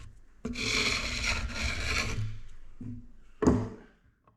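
Hand scraper shaving a heavy timber stem post: a long scraping stroke, a shorter one, then a brief louder sharp stroke near the end.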